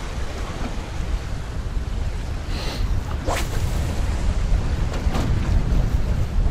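Strong wind buffeting the microphone in a dense low rumble, with waves slapping around a small boat. A couple of brief, higher swishes cut through about halfway and again near the end.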